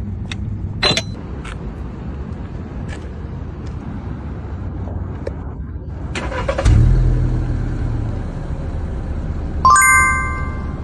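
Car engine running at idle with a steady low hum, after an exhaust repair that the owner says has completely solved the abnormal noise. About seven seconds in, a sudden louder surge of engine sound eases off over a second or so. Near the end there is a short ringing tone.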